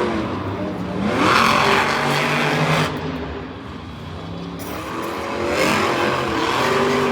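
Monster truck engine revving hard, rising in pitch about a second in. It swells loud twice, easing off briefly in the middle.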